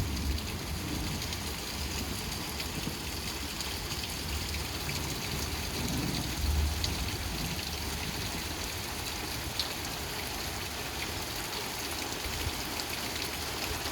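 Steady rain falling and pattering on surfaces during a thunderstorm, with a few soft low rumbles underneath, the clearest about halfway through.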